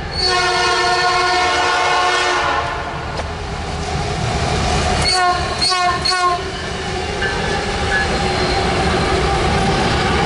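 Train horn sounding one long blast of about two and a half seconds, then three short blasts in quick succession about five seconds in, over the steady running noise of a passing train.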